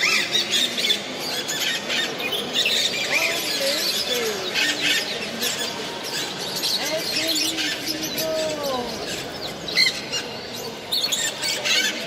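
A chorus of many caged parrots and other birds chirping, squeaking and squawking together without pause, with a few lower, arching calls among the shrill ones.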